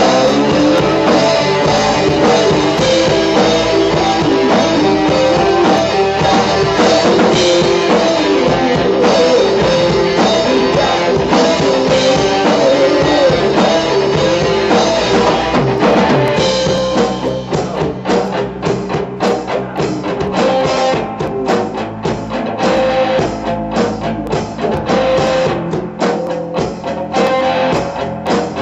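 Rock band music with drum kit and guitar. About sixteen seconds in, the dense full-band sound thins out to a sparser, choppier passage.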